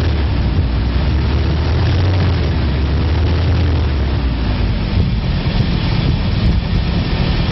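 1999 Chevrolet truck's 5.7-litre V8 engine running steadily, a loud, even low hum.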